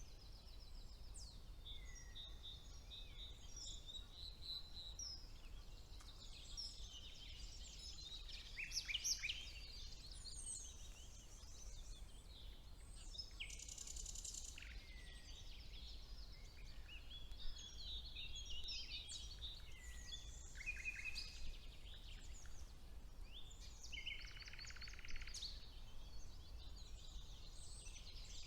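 Several songbirds singing at once in overlapping whistles, chirps and short phrases, with fast rattling trills about halfway through and again near the end, over a faint low hum.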